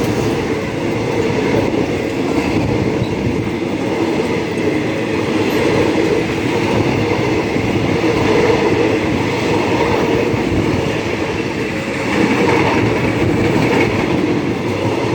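Passenger train passing close by, a loud steady rumble of wheels on rail as a long line of coaches rolls past.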